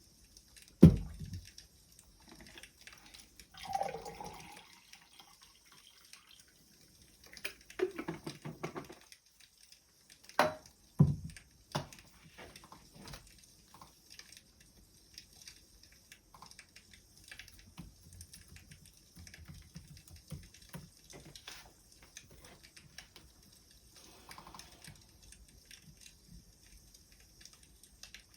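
Wood fire crackling faintly with scattered small pops and ticks, broken by a few louder knocks and rustles; the loudest is a sharp knock about a second in.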